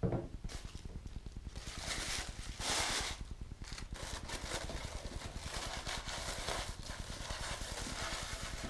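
Rustling and light clattering of packaging and model parts being handled as a 1/50 scale model crane's boom and jib sections are unpacked from their box.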